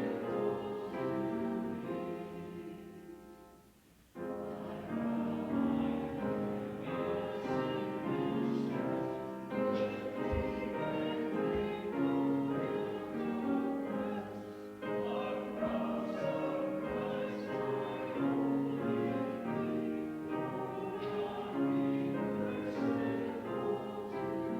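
Congregation singing a hymn with keyboard accompaniment. The music fades to a brief pause about four seconds in, then starts again.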